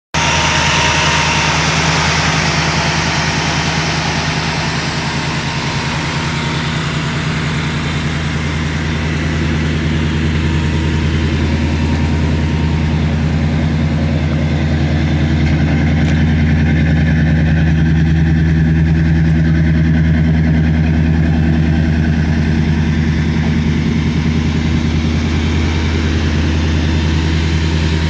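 Car engine running steadily at idle, a low even rumble with no revving.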